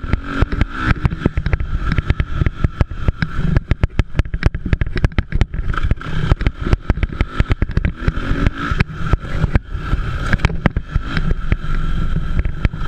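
Motocross dirt bike engines running and revving, mixed with constant rapid crackling and knocking on the microphone.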